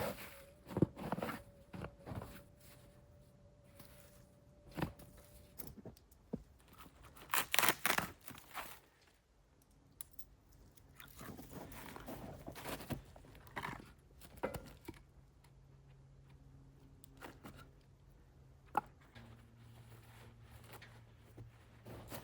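Scattered tearing and crunching as pigeons are breasted out by hand, skin and feathers pulled from the bird. The loudest burst of tearing comes about seven to eight seconds in.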